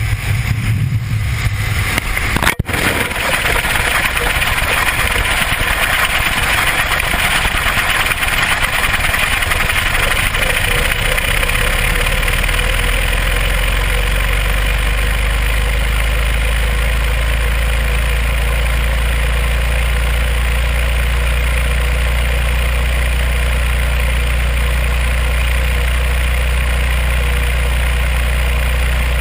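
Loud, steady rush of wind over the microphone of a camera falling from an airplane, with a low drone setting in about twelve seconds in.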